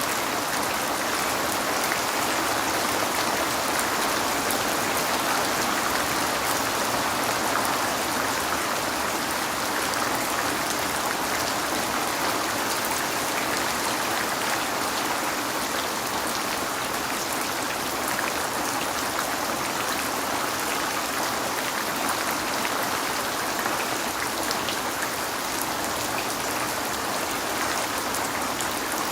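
Steady rain falling on a window: an even hiss with many fine drop ticks, unchanging throughout.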